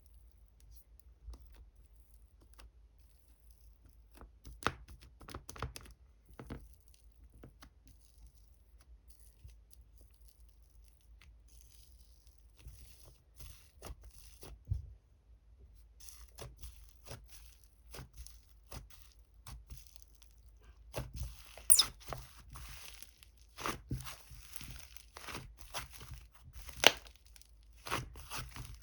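Hands squishing and stretching a crunchy purple slime: irregular crackling and rustling with small snapping pops. It is sparse at first, then comes thicker and louder from a little past halfway.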